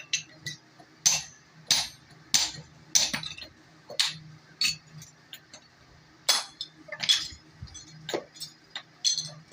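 Hammer blows on an axe head at the anvil: a series of sharp metallic strikes, roughly one every half second to a second, with a pause of over a second in the middle.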